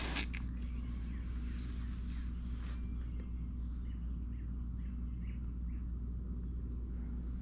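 Yamaha YZ250F's single-cylinder four-stroke engine idling steadily. There is a sharp knock right at the start, and faint bird chirps from about three seconds in.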